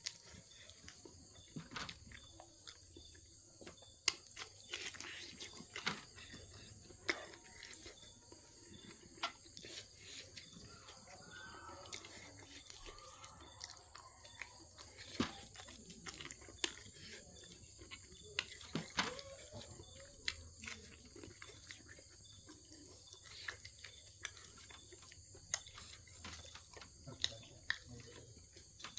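Close-up eating sounds: irregular chewing, smacks and crunches of a person eating. Under them runs a steady high chirring of insects.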